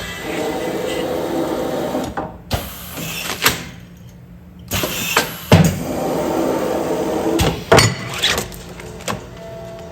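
Automatic food-container sealing machine running through its sealing cycle twice: a steady motor-driven run of about two seconds, then sharp clacks as the press and film cutter work, repeating about every five seconds.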